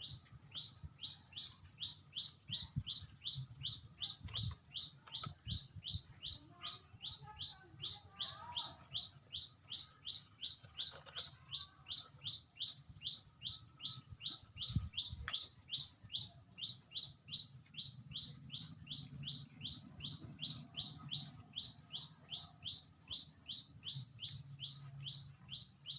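A small bird giving one short, falling chirp over and over, about three a second, without a break.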